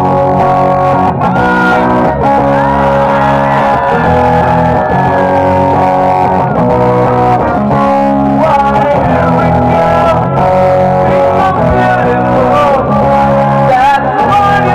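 Live rock band playing an instrumental passage: distorted electric guitar over bass guitar, with some notes bending in pitch.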